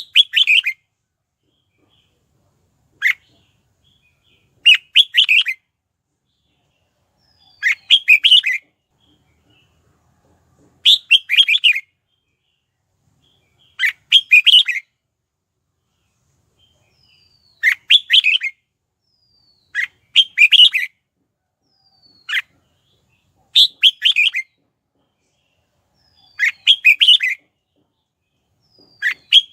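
Red-whiskered bulbul singing: short, quick warbled phrases, each under a second long, repeated about every three seconds with quiet gaps between. It is a decoy bird's song, used to lure wild bulbuls.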